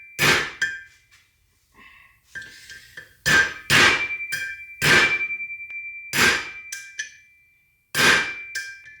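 Hammer blows on a drift driving a steel bearing race into a Toyota front hub: about nine irregular strikes, each ringing metallically. The blows are starting to sound solid as the race seats.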